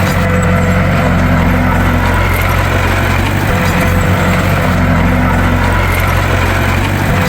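Bulldozer's diesel engine running steadily at an even, loud level.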